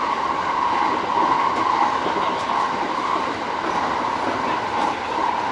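JR East E231-series electric commuter train running at speed, heard from inside the leading car: a steady rolling roar of wheels on rail with a continuous mid-pitched hum.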